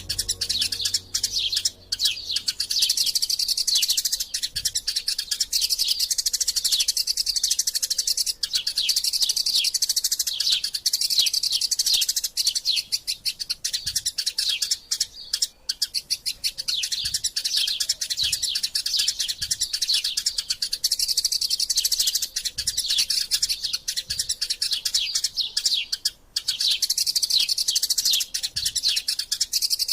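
Eurasian tree sparrows chirping in a fast, almost unbroken stream of high chirps with only brief pauses: the excited calls of sparrows fighting.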